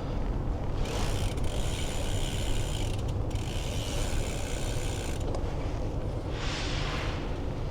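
Bicycle freehub ratcheting while coasting: a steady buzz of about four seconds with a brief break in the middle, over low wind rumble on the microphone. A short hiss follows near the end.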